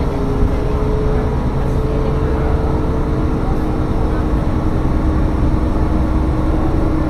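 Diesel railcar running along the line: a steady low rumble of engine and wheels, with a humming engine tone that shifts in pitch about halfway through.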